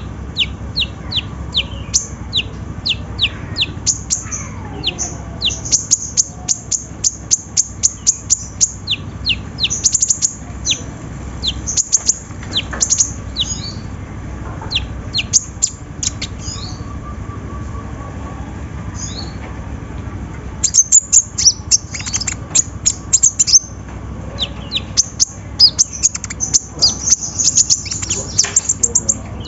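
Konin (kolibri ninja) sunbird singing: rapid runs of short, sharp, high-pitched chips and twitters coming in bursts, denser and louder at several points.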